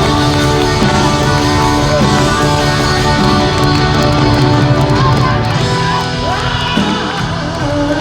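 Live rock band music heard loud in an arena, with held electric guitar chords over bass and drums.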